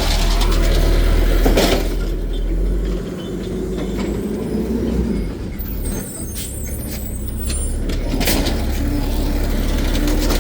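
Garbage truck engine running with a steady low rumble, with a short burst of hiss about a second and a half in and another near the end.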